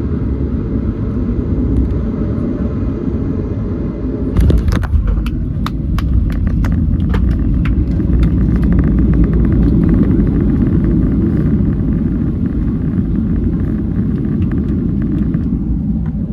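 Steady low rumble of a Boeing 737 after landing, with a run of sharp clicks and rattles starting about four seconds in.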